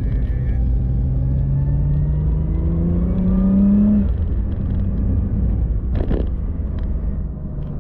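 Car engine pulling with rising revs for about four seconds, then easing off to a steady hum, with one sharp knock about six seconds in.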